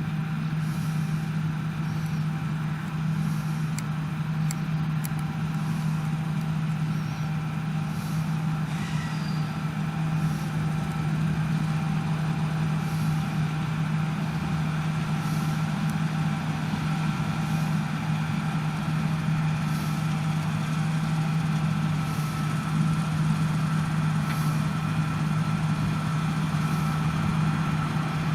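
Heavy farm machinery's diesel engine running steadily under harvest work, a constant deep hum with steady higher whines over it.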